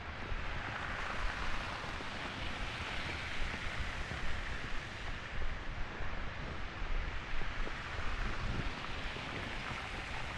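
Steady city street noise in a snowstorm: a rushing hiss of wind and blowing snow over a low rumble.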